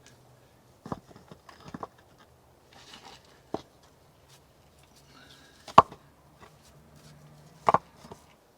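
Irregular sharp knocks and clatters, a handful of separate strikes, the loudest about six seconds in and another near the end.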